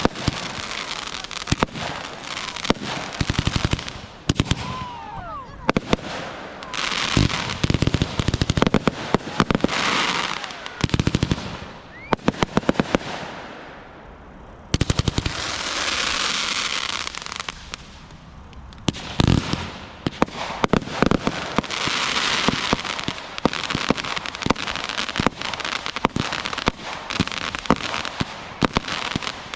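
Consumer fireworks going off: dense crackling and popping with sharp bangs, a couple of short whistles, and stretches of hissing, sparkling crackle.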